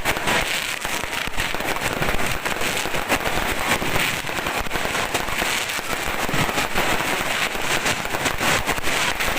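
Fireworks and firecrackers going off in a dense, continuous barrage of overlapping sharp cracks and pops.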